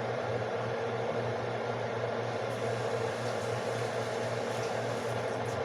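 Steady kitchen background noise: a constant low hum under an even hiss, unchanging throughout.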